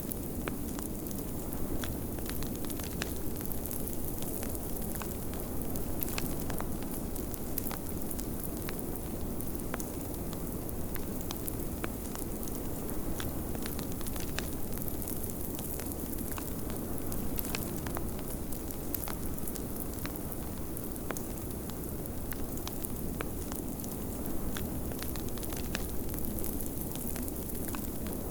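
Wood fire crackling in a fireplace, with many small irregular pops, over a steady low rush of blizzard wind.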